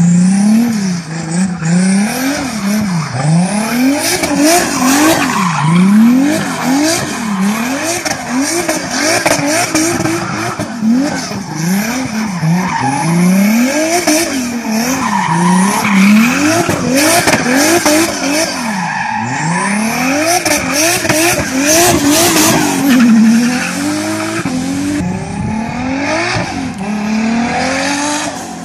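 Toyota Supra MK4's 2JZ-GTE turbocharged straight-six revving up and down over and over, roughly once a second, with tyres squealing.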